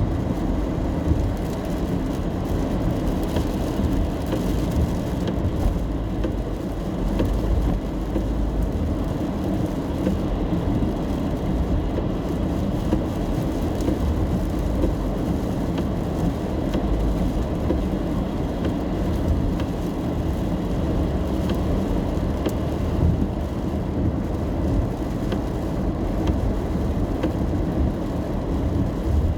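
Steady in-cabin road noise of a car driving in the rain: a low, even rumble from the tyres and engine, with faint scattered ticks of rain on the car.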